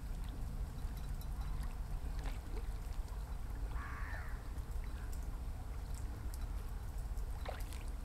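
A single short, harsh, crow-like bird call about four seconds in, over a steady low rumble.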